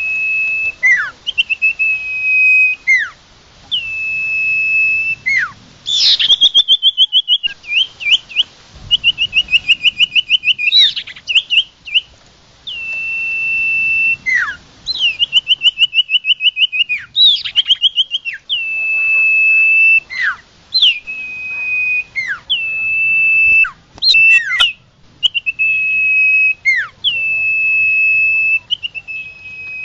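Sirtu, a small Indonesian songbird, singing loudly and continuously. It holds long, clear whistled notes, each ending in a sharp downward slur, and alternates them with quick trills of repeated notes, several a second.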